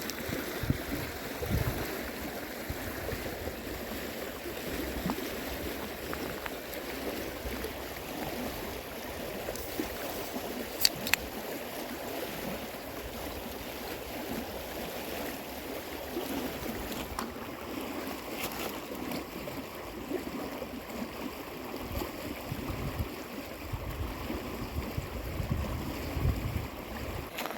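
River water flowing steadily, with a sharp click about eleven seconds in and a few low rumbles near the end.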